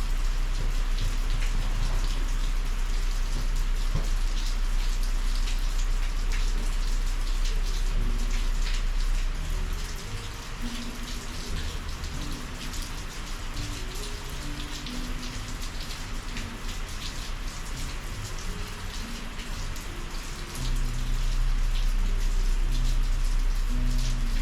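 Heavy summer rain falling steadily, with many individual drops hitting close by. A low rumble underneath eases off for about ten seconds midway, then comes back.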